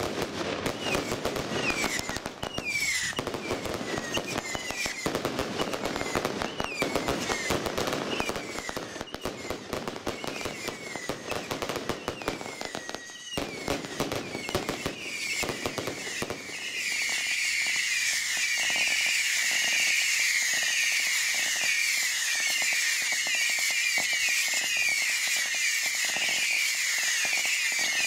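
Daytime fireworks going off: rapid crackling and pops mixed with many short whistles. About 16 seconds in, a louder, denser, unbroken mass of high whistling and crackle takes over.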